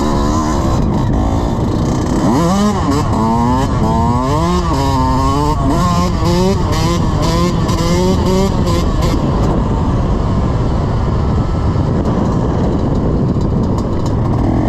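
Dirt bike engine revving, its pitch climbing and dropping back several times in the first half. After that it becomes a steady, loud rush in which no clear engine note can be picked out.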